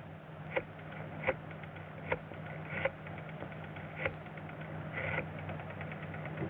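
A few short clicks and knocks at uneven intervals over the steady low hum of an early sound-film soundtrack.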